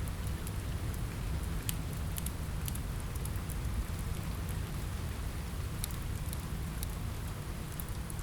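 Steady rain on a window, a constant hiss with a deep low rumble, mixed with the sharp scattered pops of a crackling log fire.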